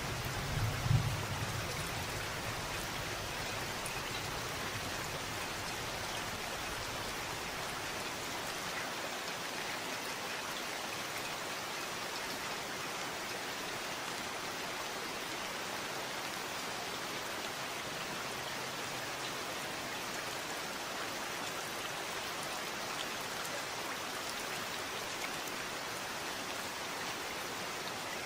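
Steady rain falling, an even hiss. A low rumble of thunder peaks about a second in and fades out within the first two seconds.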